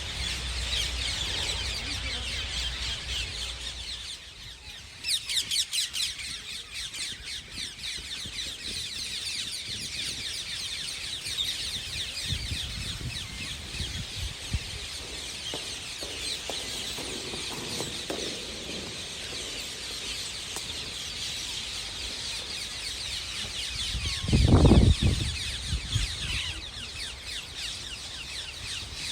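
A large flock of rose-ringed parakeets screeching continuously, with many shrill calls overlapping and a louder burst of calls about five seconds in. A brief loud low rumble comes near the end.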